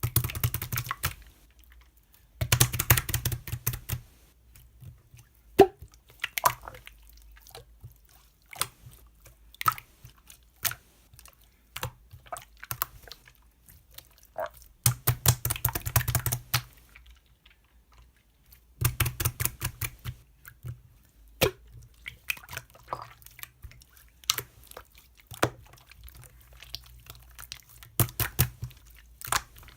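Slime being squeezed and pressed by hand, making sticky popping clicks: dense crackling runs of a second or two, several times, with single pops in between.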